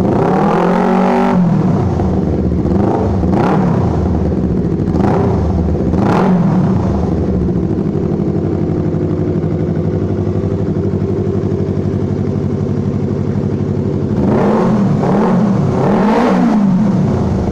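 Yamaha MT-25's parallel-twin engine idling through a custom M4 under-belly exhaust, with short throttle blips: a bigger one about a second in, smaller ones around three and six seconds, and two more near the end.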